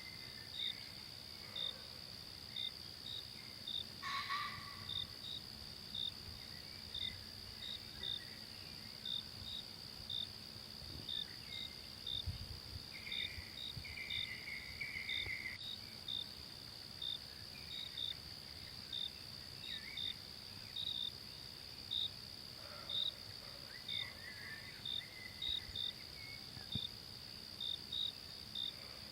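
Forest insects calling: a steady high drone with a short, high chirp repeating about once or twice a second. Faint bird calls come in a few times, most clearly in the middle and about three quarters of the way through.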